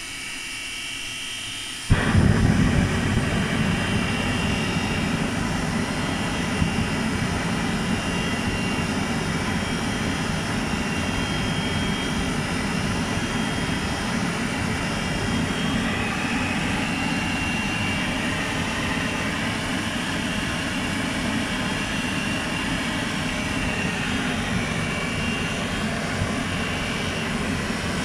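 Small LPG gas burner lighting about two seconds in with a sudden loud whoomp, then running with a steady roar like a small jet engine. Before it lights there is a quieter steady hiss with a faint high whine.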